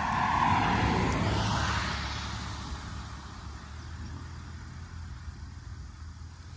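A vehicle passing by on a road. Its tyre and engine noise swells to a peak about half a second in and fades away over the next two seconds, over a steady low rumble.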